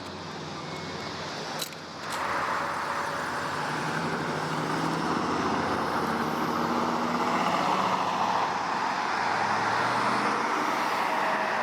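A car running, heard as a steady rushing of engine and road noise that picks up about two seconds in after a brief break.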